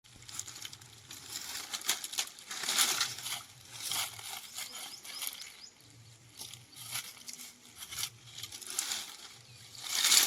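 Irregular scraping and rustling from handling food and utensils while cooking, in uneven strokes, loudest near the end.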